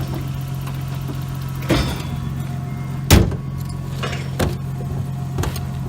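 Nissan RB20 straight-six idling steadily, running smoothly now that a replacement crank angle sensor is fitted. Four short knocks sound over it; the loudest is about three seconds in.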